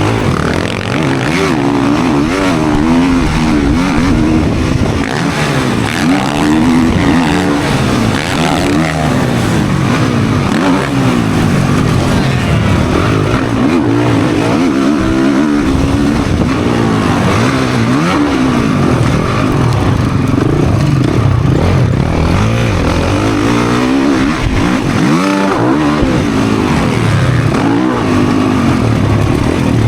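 Motocross dirt bike engine ridden hard, revving up and dropping back again and again as the rider works the throttle and gears.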